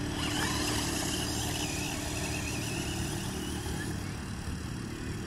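Brushless-motor RC truck running on a 2S LiPo, a wavering high electric whine over a steady rough rolling noise.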